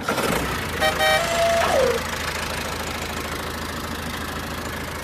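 An engine running steadily at an even pace. About a second and a half in, a short pitched tone drops in pitch over the engine.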